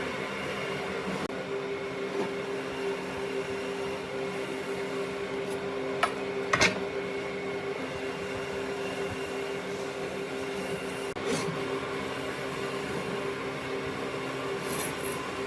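Steady hum of a running machine motor, with two sharp knocks about six seconds in and a softer one a little after eleven seconds.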